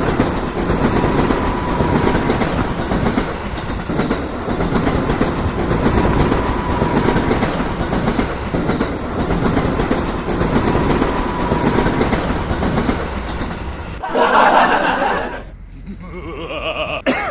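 Passenger train running on the rails with a steady rumble. About fourteen seconds in, the sound changes abruptly to a brief louder burst and then drops away.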